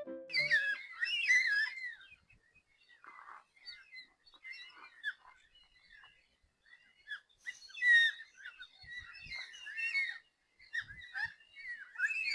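Black cockatoos calling: drawn-out, wailing calls that bend up and down in pitch, loudest in clusters about half a second in, about 7 to 10 seconds in, and near the end, with fainter calls between.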